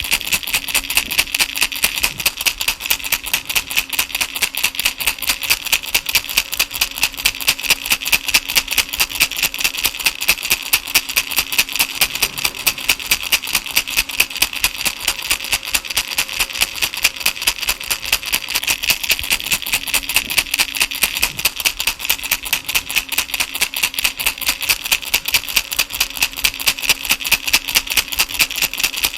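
Baby rattle shaken in a steady, even rhythm of about three shakes a second, giving a bright, continuous rattling.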